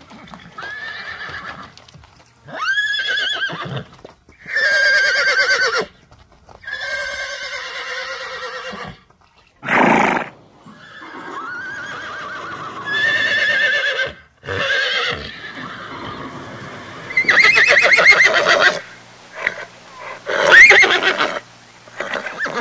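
Horses whinnying and neighing, a long run of separate calls one after another, each one or two seconds long, some high-pitched and wavering.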